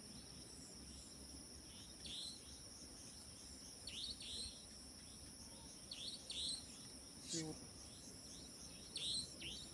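Night insects, crickets, trilling steadily in a high continuous tone, with pairs of short falling chirps every two to three seconds and one brief lower sound a little after seven seconds in.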